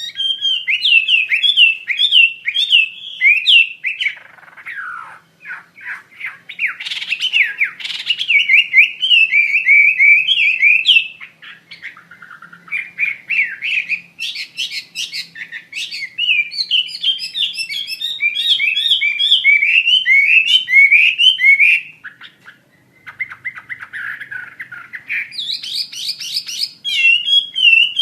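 Chinese hwamei (wambi mandarin) singing loudly and continuously: fast runs of repeated whistled notes that change phrase every few seconds, with brief pauses about 11 and 22 seconds in.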